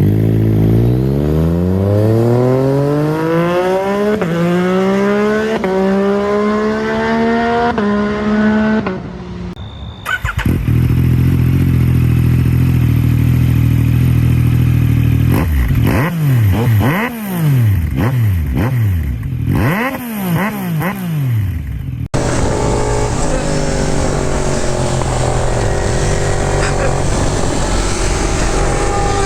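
Yamaha MT-09 inline three-cylinder motorcycle engine accelerating hard through the gears, its pitch climbing and dropping back at each upshift. After a cut it runs steady, then is revved in a string of quick throttle blips. In the last stretch it runs steadily at speed under loud wind noise.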